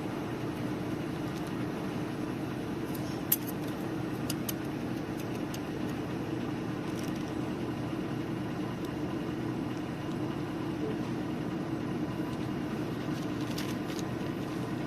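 An engine running steadily at an even pitch, with a few light clicks and ticks over it, the sharpest about three seconds in.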